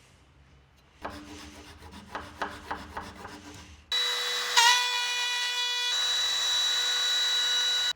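A few seconds of irregular rubbing strokes on wood, then a power tool cuts in suddenly and runs loud and steady with a high whine until the end.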